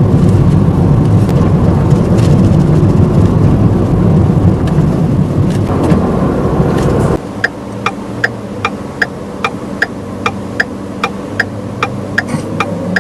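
Car driving with loud, steady engine and road noise, which cuts off suddenly about seven seconds in to a quieter idling hum with a turn-signal indicator ticking about two and a half times a second.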